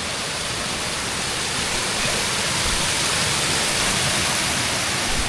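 Waterfall: a steady rush of falling water, swelling slightly in the middle.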